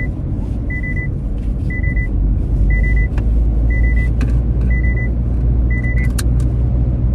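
Nissan Magnite's seatbelt reminder chime beeping a single high tone about once a second, warning that the driver's belt is unfastened, over the steady road and engine rumble of the car's cabin. The beeping stops about six seconds in, followed by a few sharp clicks.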